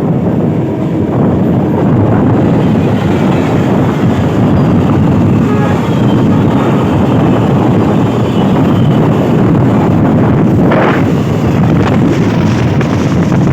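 Train running at speed: a loud, steady rumble of wheels on the track, with wind buffeting the microphone.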